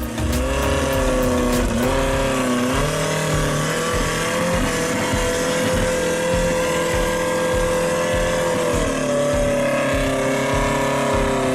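Off-road 4x4 vehicle's engine running at fairly steady revs, pulling through mud, with the engine note shifting a couple of times as the revs change.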